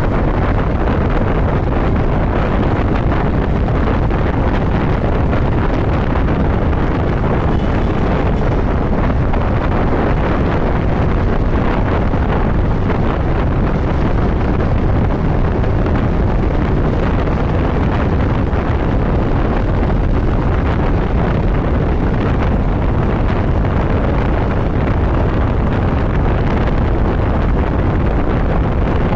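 Steady wind rush over the microphone of a motorcycle riding at road speed, heaviest in the low end, with the motorcycle running underneath.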